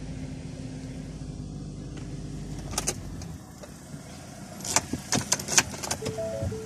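Car engine running steadily, then stopping about three seconds in. A quick series of sharp clicks and rattles follows, and a chime-like tone sounds near the end.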